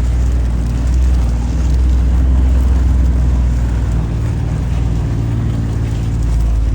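A vehicle's engine running steadily at low speed while it drives along a rough trail. It swells slightly about a second in, then eases off.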